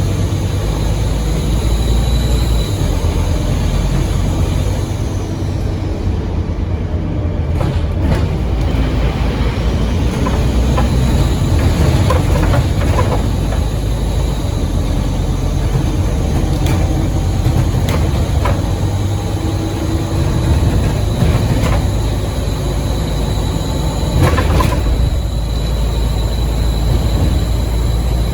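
Scania N230UD OmniCity double-decker bus under way: its five-cylinder 9-litre diesel runs with a deep, loud rumble, and a thin, steady, high turbo whistle sits over it. A few short rattles or knocks come through, about halfway and again near the end.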